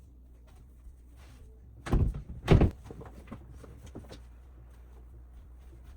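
Two heavy thuds about half a second apart, around two seconds in, over a low steady hum.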